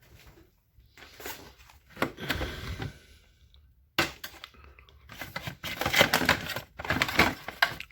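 Hands rummaging among loose hard parts: irregular rustling, clicks and knocks, growing into a busy run of clatter about halfway through.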